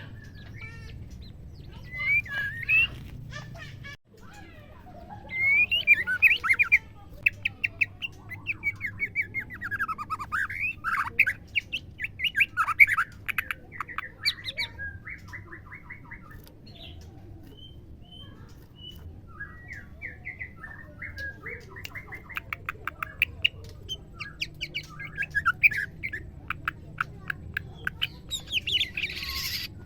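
Female white-rumped shama calling. Varied whistled notes sweep up and down, mixed with fast stuttering rattles, and it goes sparser for a few seconds mid-way. These are the calls of a female, the kind that sets male shamas singing.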